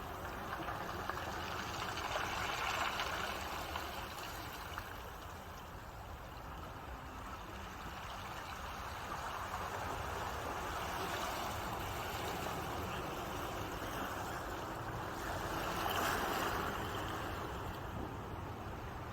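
Ocean waves washing in, a steady rush of water that swells a few times as waves break.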